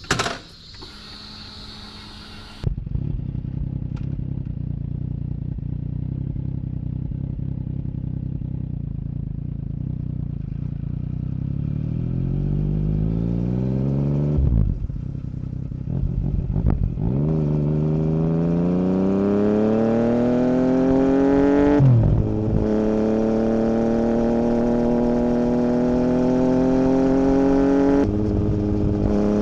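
2017 Yamaha MT-09's 847 cc inline-three running through an Akrapovic Racing Line carbon full exhaust with the dB killer removed. The engine comes in abruptly about three seconds in and idles steadily. It then pulls away, the revs rising through the gears with a short drop in pitch at each of several upshifts.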